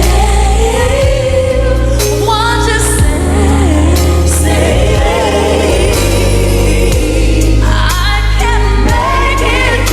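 A woman sings a live pop ballad with a full band, backing vocals and a steady bass, her voice gliding and holding notes with vibrato.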